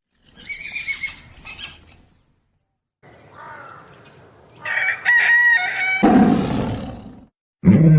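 Rooster crowing, with hens clucking, in short separate clips with brief silent gaps between them.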